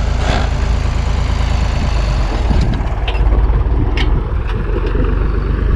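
A vehicle engine running steadily with a deep low rumble, with a few short sharp clicks about four seconds in.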